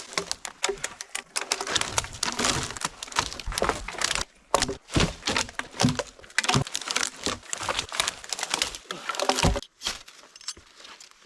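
Dry branches and twigs snapping and crackling, with rapid irregular cracks and crunching as limbs are broken off and brush is handled, in several short cuts.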